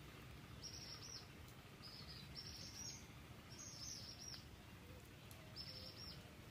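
A bird chirping faintly in five short runs of quick high notes, over a faint low background hum.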